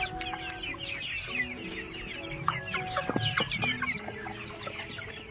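Chickens clucking and calling in a busy stream of short, high calls as they scramble for live superworms.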